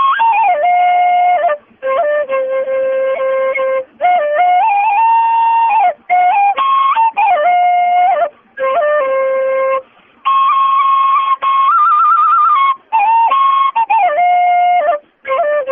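Flute music: a single melody in held notes and short phrases with brief pauses between them, with a quick trill about twelve seconds in.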